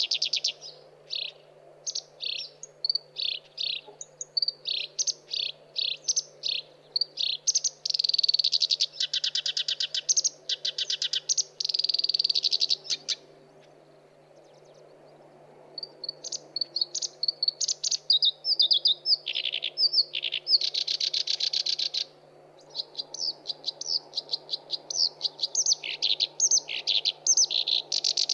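Black-browed reed warbler singing a long, fast, varied song of chattering and whistled notes with buzzy trills, pausing for about two seconds near the middle before starting again.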